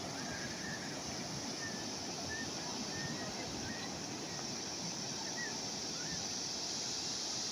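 Calm sea waves washing steadily, with a few faint, short bird chirps scattered through.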